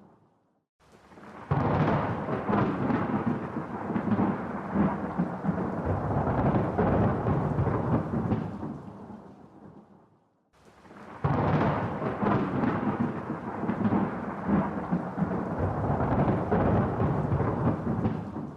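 Two long rolls of thunder. Each one breaks in suddenly, rumbles for about eight seconds and dies away, with a brief near-silent gap between them.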